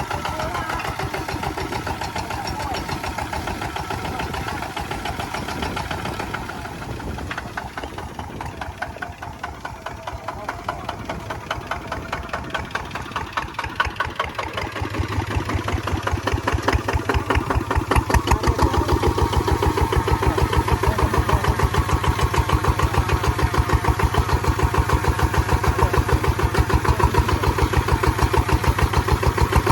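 Kubota ZT155 single-cylinder diesel engine on a two-wheel plowing tractor, running with an even, pulsing beat. It eases off a little about a quarter of the way in, then gets louder and fuller about halfway through, as under heavier load or higher throttle.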